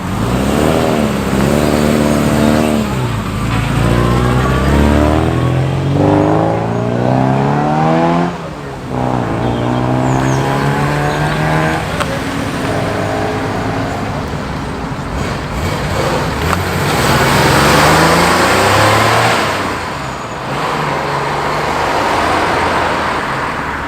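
Car engines accelerating away, each pitch climbing and then dropping back at a gear change, several times over. Near the end a car passes close with a rush of engine and tyre noise.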